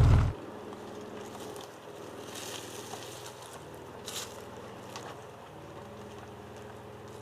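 Ford Ranger Raptor's 3.0-litre V6 engine running at a steady low hum, just after a much louder passage cuts off in the first moment. Two brief hissing scrapes come through about two and a half and four seconds in.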